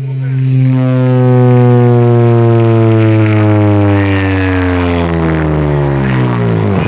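Pickup truck's competition car-audio system playing a single loud bass tone for a decibel (SPL) measurement; the drone slides slowly down in pitch and cuts off near the end.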